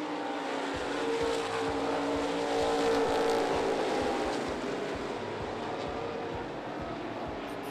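Dirt-track race car engines running as cars go by, with an engine note that climbs and then falls away over the first few seconds.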